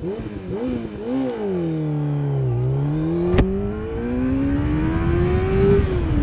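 600cc sportbike engine doing a standing-start launch. The throttle is blipped, then the clutch is dropped and the engine note sags under load before climbing through first gear. A sharp click comes about three and a half seconds in, the note steps down as it shifts up around four seconds, climbs again, and eases off near the end.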